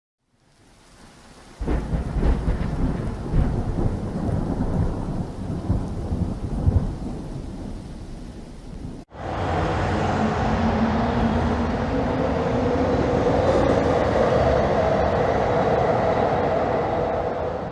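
Stock thunderstorm sound effect: heavy thunder rumbling in irregular peaks over rain. After a brief break about nine seconds in, a steadier stretch of storm and rain noise follows, then fades out.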